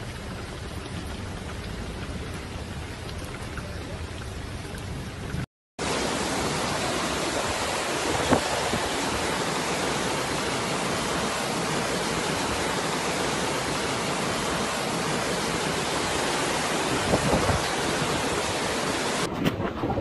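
Hurricane wind and heavy rain: a dense, steady rush of noise. It cuts out for a split second about five seconds in, then comes back a little louder, with a short knock or two.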